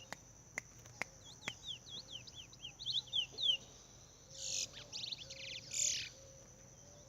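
House sparrow calling: a quick run of short falling chirps, then two loud harsh buzzy calls a little over a second apart. A few sharp clicks come before the chirps.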